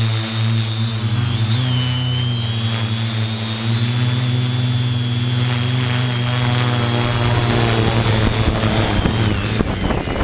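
Multirotor drone's motors and propellers running with a steady buzz and a high whine that shifts slightly in pitch as the motors adjust. Near the end the buzz fades under a rush of wind.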